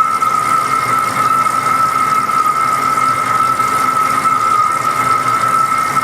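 Metal lathe turning a large part, giving a steady high-pitched squeal that holds one unchanging pitch throughout.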